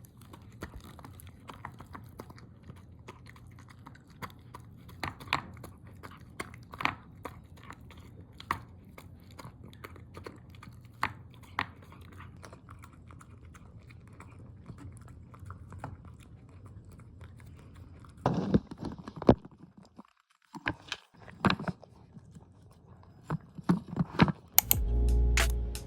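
A dog chewing and crunching on a homemade chicken treat: irregular small crunches and clicks of its teeth. Music comes in near the end.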